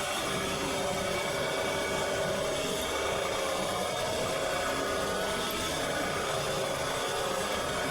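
Lawn mower running steadily, with an even machine hum and no change in pitch.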